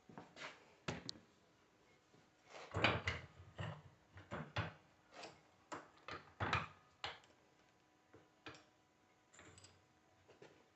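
Irregular knocks, clicks and scrapes of alternator parts and tools being handled on a bench, loudest about three seconds in and again about six and a half seconds in.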